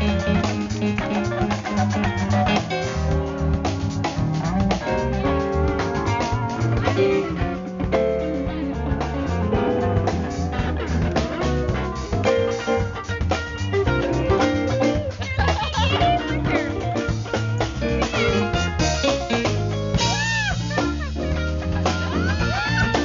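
A live band playing with electric guitar, bass, drums and keyboards, with a steady beat; near the end, notes bend up and down.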